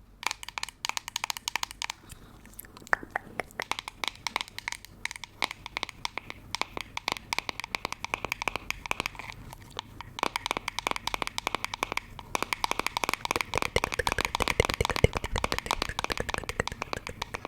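Dense, rapid crackling and clicking from close-miked ASMR triggers, irregular throughout and growing louder about thirteen seconds in.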